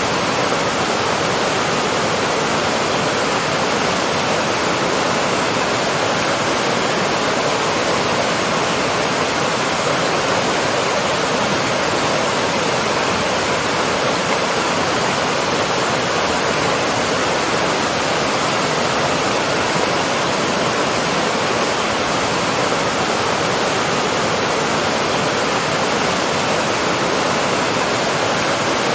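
Waterfall: water falling and rushing in a steady, unbroken roar-like hiss with no changes.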